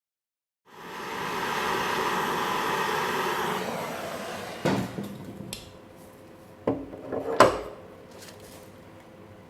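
A steady rushing hiss for about three seconds, fading out. Then four sharp knocks of tools or parts on metal, the last the loudest, during hands-on disassembly of the trike.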